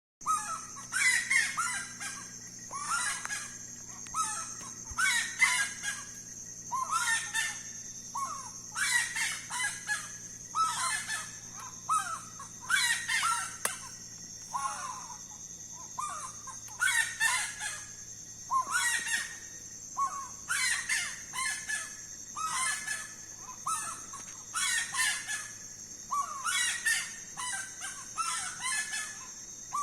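Saracura (wood-rail) calling loudly over and over, harsh repeated phrases about every second or two, over a steady high-pitched drone.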